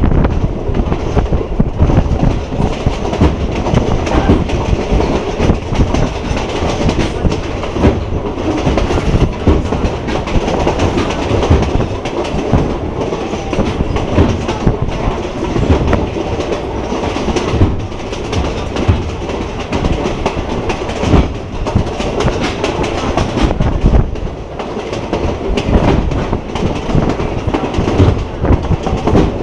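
Passenger train running along the track, heard from inside a carriage: a steady rumble of wheels on rails with irregular clickety-clack over the rail joints.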